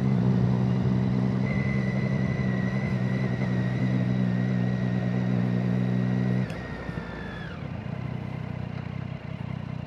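Motorcycle engine running at a steady pitch, then dropping away sharply about two-thirds of the way through to a quieter low rumble as the throttle is closed.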